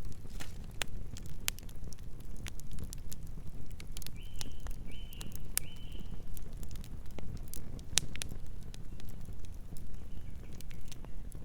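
Campfire burning, with irregular sharp wood crackles and pops over a low, steady rumble of flames. Three short high chirps come in quick succession about four to six seconds in.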